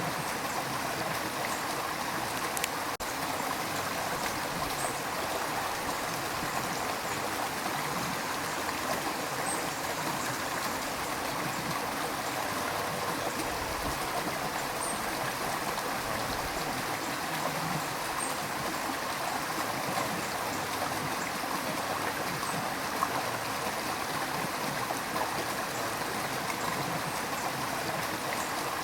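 River water rushing and gurgling steadily over rocks, an even wash of sound with small splashes.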